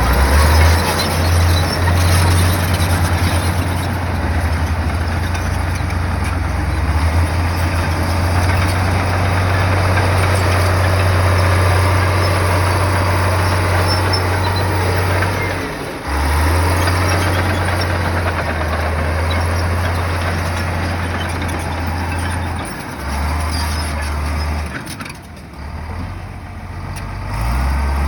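Heavy bulldozer diesel engine running steadily under load. It dips briefly about halfway through and falls quieter and uneven near the end before picking up again.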